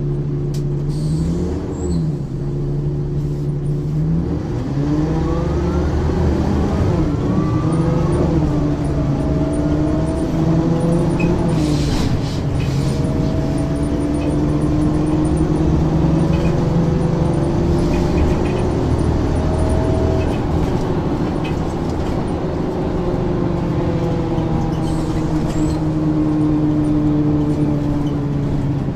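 Ikarus 435 articulated bus's diesel engine and ZF automatic gearbox running under way: a brief rise and fall in pitch early, engine notes climbing and shifting through the gears a few seconds in as the bus pulls away, then a steady drone while it cruises.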